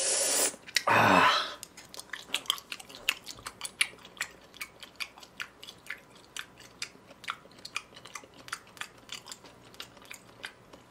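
A person chewing raw beef sashimi close to the microphone: many small, irregular wet clicks and smacks of the mouth. It opens with a brief loud breathy noise as the meat goes in.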